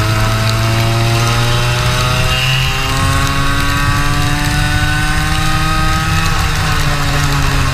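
Small single-cylinder go-kart engine running under load, its pitch climbing steadily for about six seconds as the kart accelerates, then dropping back as the throttle comes off near the end.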